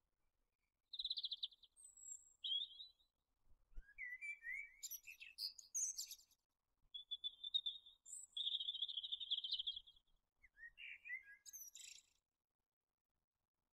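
Songbirds singing: a string of short chirps, buzzy trills and gliding phrases with brief gaps between them, including one longer trill in the middle, falling silent near the end.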